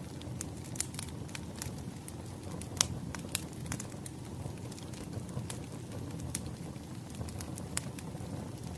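Firewood burning in a fire, with irregular sharp crackles and pops over a low steady rumble. The loudest pop comes a little under three seconds in.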